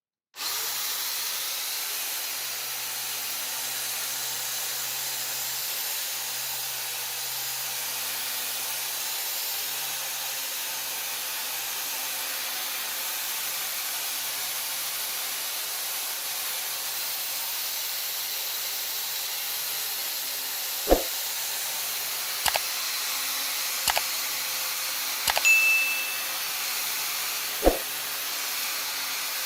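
Steady rushing hiss of air from a compressed-air tool, with a faint low hum under it and five sharp clicks or knocks in the last third, one with a brief high ring.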